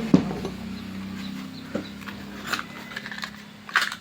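Several sharp knocks and clicks of metal parts and tools being handled on a workbench, over a faint low hum that fades away.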